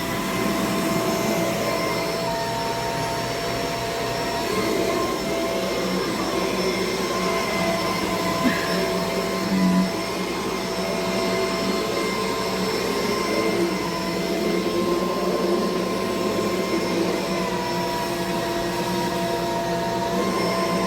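Kenmore DU4080 Featherlite bagless upright vacuum running steadily: a whine of several held tones over rushing air, with a couple of brief bumps around the middle.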